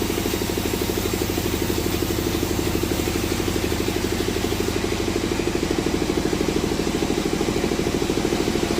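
A sawmill's engine running steadily, with an even, rapid pulsing beat.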